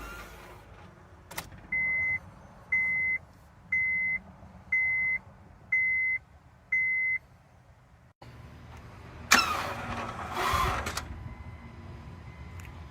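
A 2007 Honda Civic's dashboard warning chime beeps six times, about once a second. Then the car gives a harsh burst of noise lasting under two seconds as the key is turned to start: the failed, suspicious-sounding start attempt of a car left unused for six months.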